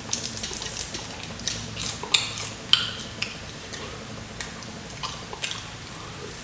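Crunching and chewing crispy fried chicken close to the microphone: irregular sharp crackles of the crust, the loudest about two and three seconds in.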